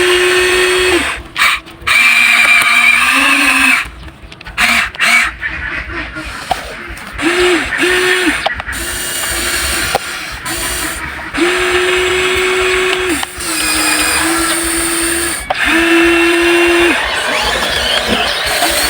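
Small electric motors and gearboxes of a Huina 1593 RC excavator whining in a string of starts and stops, some only a blip, others a second or two long, as the boom, arm and bucket are driven. The pitch stays mostly level, with one lower-pitched run near the start.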